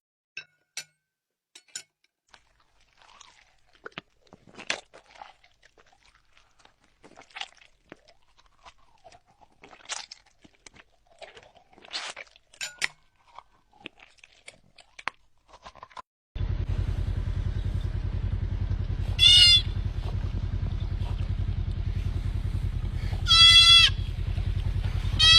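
Sparse quiet clicks and knocks, then a steady low drone over which an animal gives two short, wavering, bleat-like calls, with a third starting at the end.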